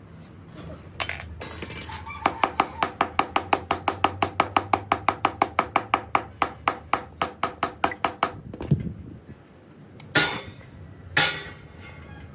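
Rapid, even light hammer taps on metal, about five or six a second, each ringing briefly, stopping about eight seconds in. Two louder, longer noisy strokes follow near the end.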